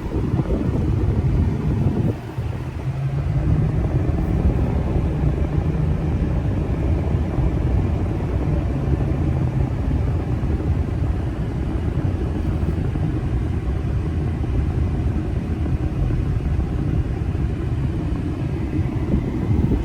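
2016 Ford F350's 6.7 L Power Stroke turbodiesel V8 and its tyres on the road as the truck drives along: a steady low rumble, with a brief dip about two seconds in.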